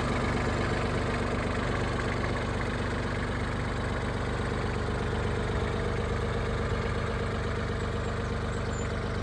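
Yanmar AC21 crawler tractor's 21 hp three-cylinder diesel engine idling steadily.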